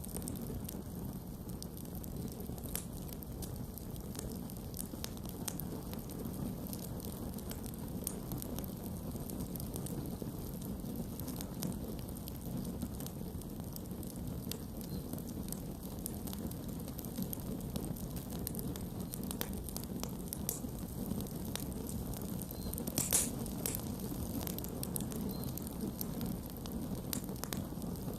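Campfire burning steadily with a low hiss and scattered sharp crackles and pops, one louder pop about 23 seconds in.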